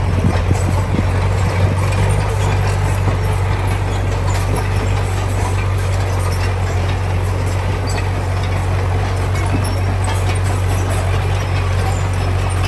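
Heavy diesel engine of construction machinery running steadily with a deep, even hum, and a few short clatters in the first couple of seconds.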